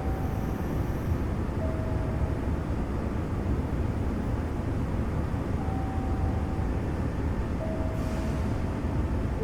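Steady hum and rumble inside a standing Semboku Rapid Railway 5000 series commuter car, its air conditioning running. A few brief, faint single tones sound now and then over it.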